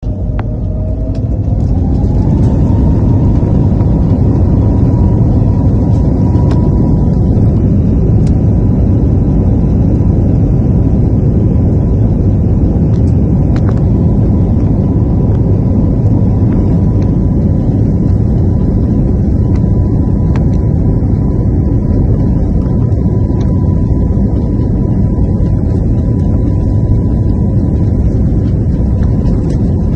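Camera drone's propellers whining: the pitch rises over the first couple of seconds, then holds steady over a loud low rumble of rotor wash and wind.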